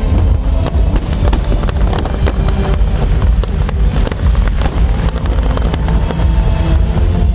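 Fireworks display firing continuously: deep booms with many sharp bangs and crackles, with music playing alongside.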